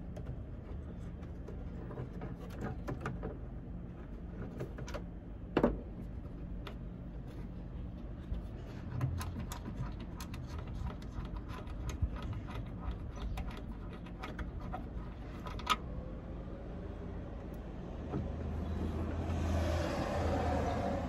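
Scattered light clicks and knocks of hands working on a car's tail-light parts, with two sharper knocks about a quarter and three quarters of the way through, over a steady low hum. Near the end a louder rushing noise rises.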